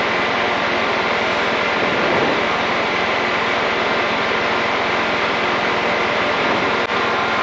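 Tecnam P92's Rotax 912 flat-four engine and propeller running steadily at power, heard inside the light aircraft's cockpit as an even drone during takeoff and climb-out.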